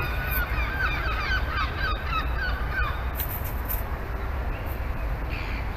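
Bird calls: a quick run of short, curving chattering notes through the first few seconds, then fainter scattered notes, over a steady low rumble.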